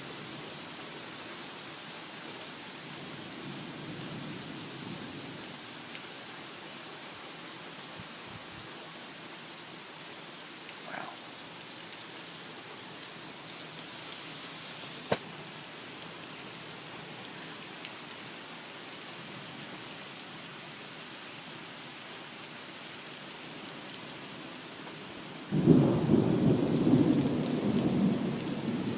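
Steady rain falling, with a few sharp ticks. About three-quarters of the way through, a sudden loud rumble of thunder breaks in and rolls on.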